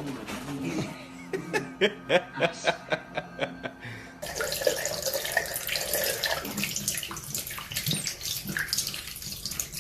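A quick run of short knocks and brief pitched sounds, then, from about four seconds in, a steady rush of running or splashing water.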